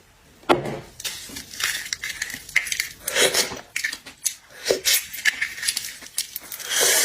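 Close-up eating of seafood: wet chewing, sucking and slurping in irregular bursts, with sharp clicks and clinks of shell or dishes.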